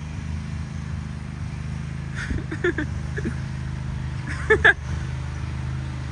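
Steady low drone of a running vehicle, with a few short pitched calls over it, the loudest two close together about four and a half seconds in.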